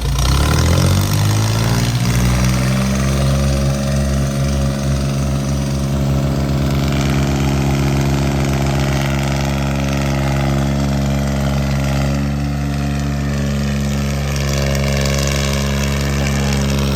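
Tractor diesel engine revving up over the first two seconds or so, then held steady at high revs.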